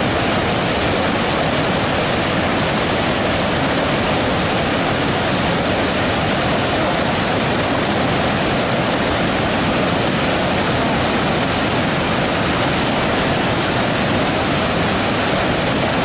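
Waterfall, with water rushing over the falls in a loud, steady, unbroken noise.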